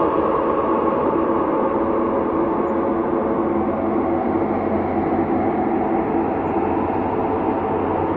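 Ambient space drone: a dense, rumbling wash of held tones that runs steadily without breaks, shifting only slowly.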